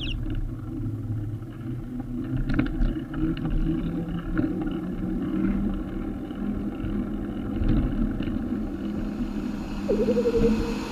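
Road traffic heard from the road: a steady low rumble of passing car engines and tyres, with a brief wavering tone near the end.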